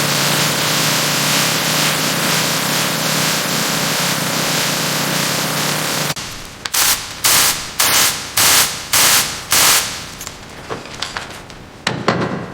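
Power tool running steadily with a dense hiss and low hum. After an abrupt cut it gives about six short, loud rattling bursts roughly half a second apart, then lighter clicks: the rhythm of a tool working fasteners loose.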